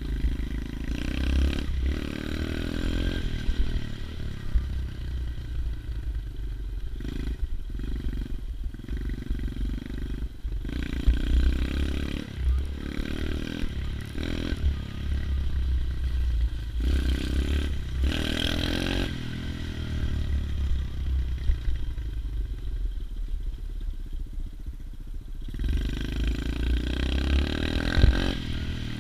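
110cc pit bike's single-cylinder four-stroke engine running under way, revving up and easing off again and again as it is ridden.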